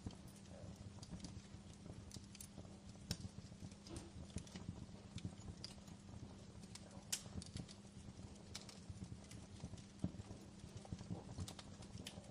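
Wood fire crackling in a fireplace: a faint, steady low rumble with irregular sharp pops and snaps, a few louder ones about three, seven and ten seconds in.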